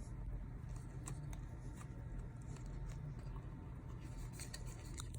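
Faint scattered clicks and light handling noise over a steady low hum.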